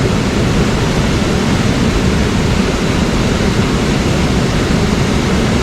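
Mountain stream water rushing, a steady, even rush of noise.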